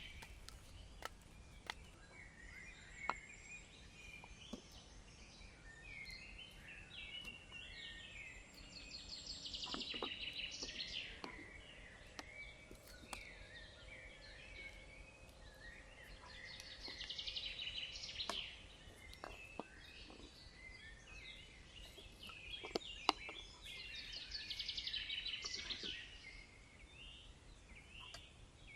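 Wild birds chirping and singing in bouts of a few seconds, several calls overlapping, with scattered sharp clicks.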